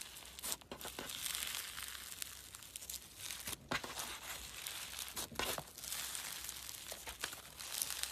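Slime being squeezed and worked by hand: a steady crackling, with sharp pops at irregular moments, the loudest a few seconds in and again near the end.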